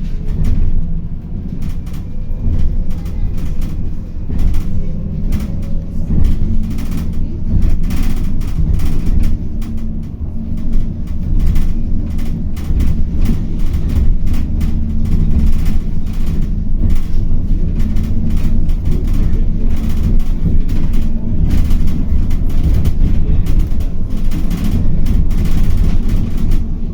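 Inside a city bus on the move: a steady low engine and road rumble, with frequent rattles and knocks from the body. A faint rising whine in the first few seconds as it pulls away or speeds up.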